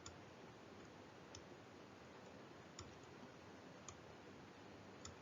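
Near silence: room tone with about five faint, sharp clicks spaced a second or so apart.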